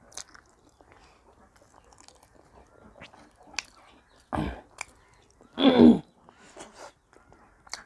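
Close-miked chewing and mouth noises of a person eating dhido and chicken gravy with their hands. There are two louder mouth sounds about four and a half and six seconds in; the second is the loudest and is voiced.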